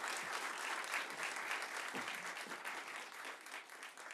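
Audience applauding at the end of a live performance, the clapping dying away near the end.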